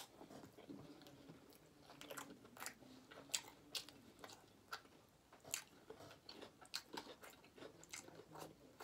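Quiet, close-up chewing of a mouthful of burrito topped with queso, with scattered wet mouth clicks and smacks.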